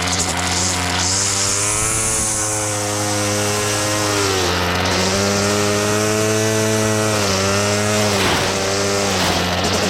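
Small petrol engine of a grass-cutting machine running steadily, its pitch dipping briefly every few seconds, typical of the engine taking load as it cuts grass.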